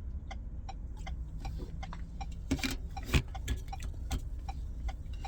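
Car turn-signal indicator clicking steadily, about three ticks a second, heard inside the cabin over a low idling-engine hum, with a brief louder knock about three seconds in.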